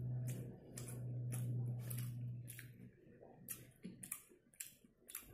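Close-up chewing of a crispy fried chicken burger: wet crunches and mouth clicks, many short sharp sounds in an uneven rhythm. A steady low hum underlies the first three seconds and then stops.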